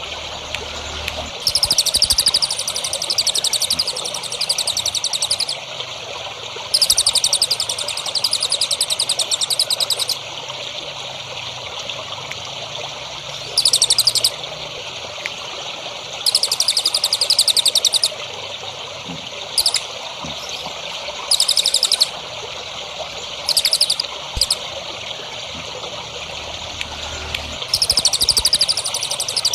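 Small songbird singing fast, buzzy trilled phrases of one to four seconds, about eight of them with short gaps, over a steady trickle of running water.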